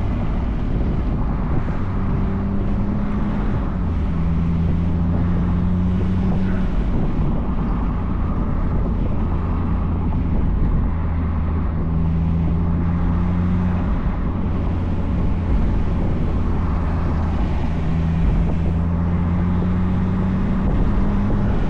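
Turbocharged 1.8-litre four-cylinder engine of a 2004 Mazdaspeed Miata with an aftermarket cat-back exhaust, cruising at fairly steady revs. The engine pitch holds, then shifts a little several times, over a steady rush of road and wind noise.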